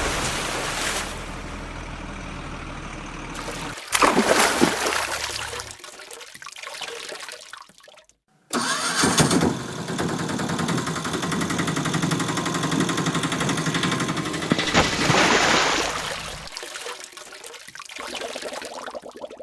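Vehicle engine sounds in several abruptly cut segments, with engines starting and running, and a brief dead gap about eight seconds in.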